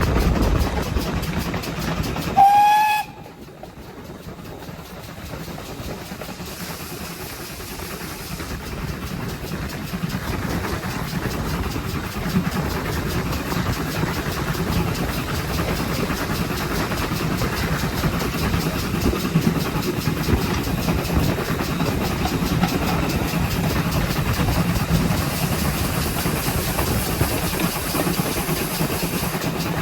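A GWR pannier tank locomotive's steam whistle gives one short blast about two and a half seconds in. After it comes the steady running rumble of the steam train on the rails, which drops away suddenly after the whistle and builds back up over the next several seconds.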